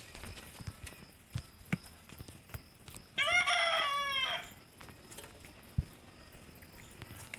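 A fowl calling once, a loud call of about a second with a wavering pitch that falls at the end, over faint footsteps on a path.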